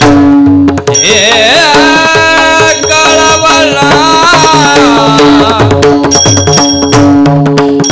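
Devotional kirtan music: a singer draws out a long, wordless, ornamented melodic line over a steady held drone note and hand-drum strokes, with clinking hand cymbals near the start and end.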